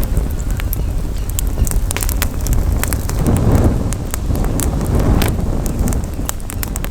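Campfire wood crackling, with many sharp irregular pops and snaps, over a steady low rumble of wind buffeting the microphone.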